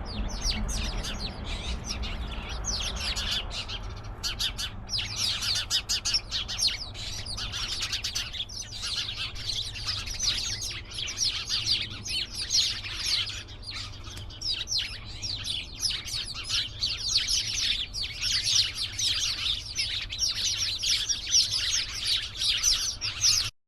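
A flock of small birds chirping together in a tree, many short high chirps overlapping in a busy chorus that grows denser about four seconds in and stops abruptly at the end.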